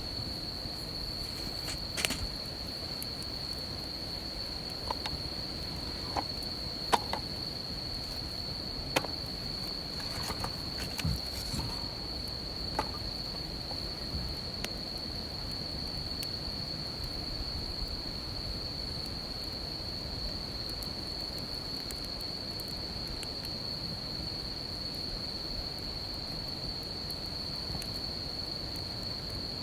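Insects trilling in one steady high-pitched drone throughout, with a wood campfire crackling and popping now and then; the sharpest pops come in the first half.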